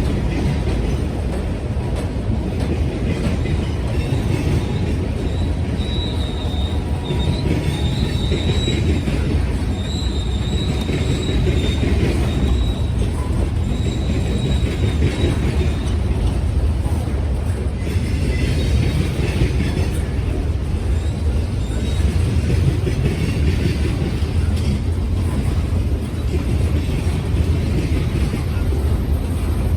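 BNSF freight train rolling past with a steady, heavy rumble of wheels on rail. High-pitched wheel squeal comes and goes in the first half.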